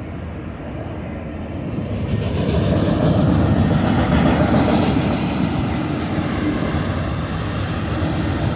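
Freight train rolling past, a steady rumble of wheels on rail that grows louder about two seconds in.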